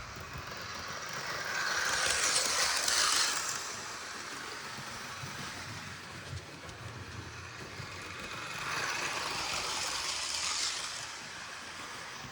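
Model HST train with power car 43005 running laps of a model railway track, passing close by twice with a rushing wheel-and-motor noise that swells and fades each time.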